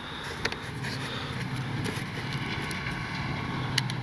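A steady, low engine hum in the distance, with a few light clicks from handling.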